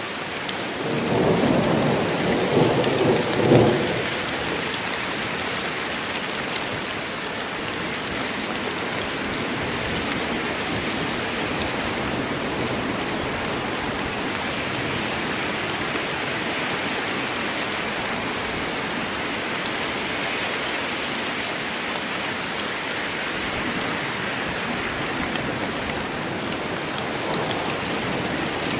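Steady heavy rain falling on the forest, with a low roll of thunder rumbling for a few seconds about a second in.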